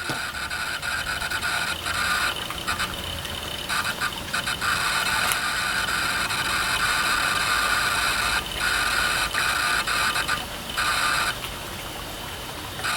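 Macintosh Plus hard drive spinning with a steady high whine and rough hiss. The sound dips briefly several times and is quieter near the end. The whine comes from its spindle bearings, which are worn out.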